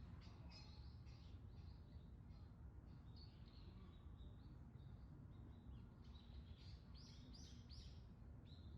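Faint songbird calls: many short, high chirps, growing busier near the end, over a low steady background rumble.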